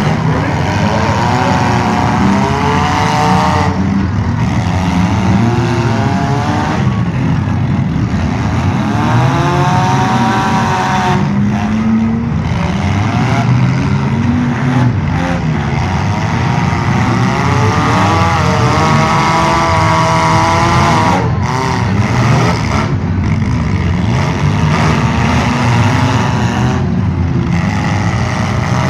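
Several demolition derby cars' engines revving, their pitch rising and falling over and over above a steady low rumble.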